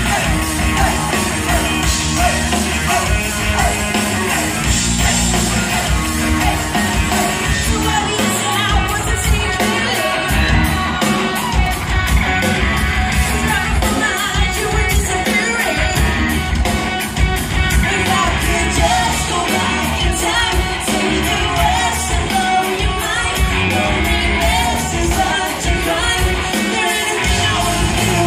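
Live pop-rock band playing loud with drums, bass and electric guitar, and a lead vocal sung over it, recorded from the crowd with some shouting mixed in.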